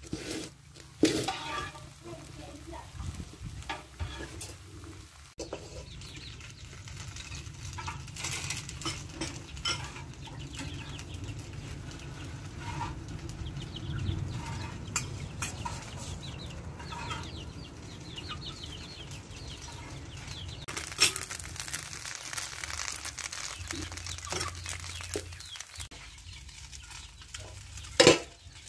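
Rice-flour pancake batter sizzling in a wok over a wood fire, with chickens clucking throughout. A few sharp clinks of utensils stand out, about a second in, around two-thirds of the way through, and near the end.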